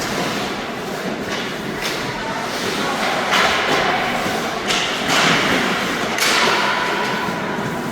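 Thuds and scraping strokes from play, four of them about a second and a half apart, over a steady background of play and voices.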